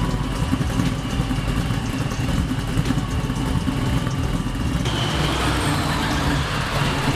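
Car engine running with a steady low rumble; a louder hiss joins it about five seconds in.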